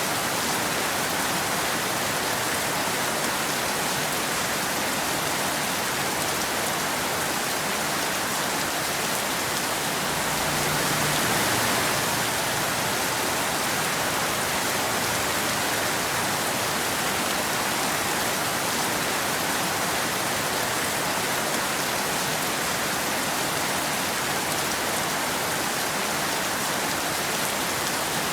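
Steady rain falling on a road and the surrounding trees, an even hiss with a slight swell about ten seconds in.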